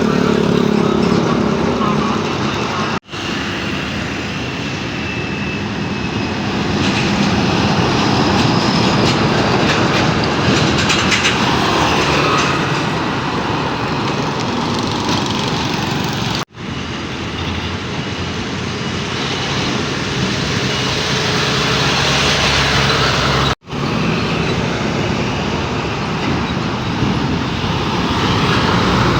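Heavy trucks running and moving, a steady mix of diesel engine and road noise, cut off for an instant three times where separate clips are joined.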